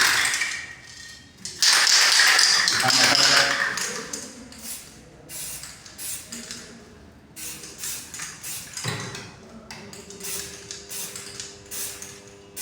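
Aerosol can of black magnetic particle ink in solvent spraying in hissing bursts, a short one at the start and a longer one of about two seconds, followed by a run of light clicks and taps. A faint steady hum comes in near the end.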